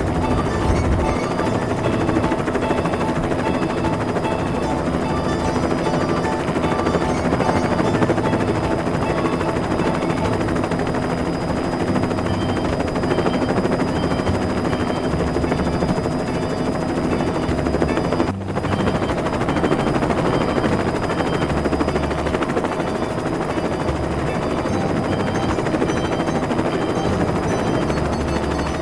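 Toy rescue helicopter's electronic rotor sound effect, a rapid steady chopping with a few steady tones, cutting out for an instant about 18 seconds in.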